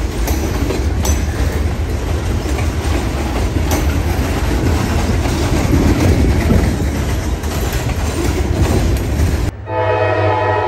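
Freight train's open-top hopper cars rolling past close by: a steady rumble of steel wheels on rail with a few sharp clicks at rail joints. About nine and a half seconds in, the sound cuts to a locomotive air horn blowing a long steady chord from an approaching train.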